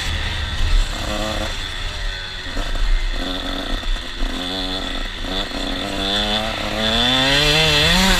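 KTM 125 SX's two-stroke single-cylinder engine revving, its pitch wavering and breaking off again and again, then climbing steadily near the end.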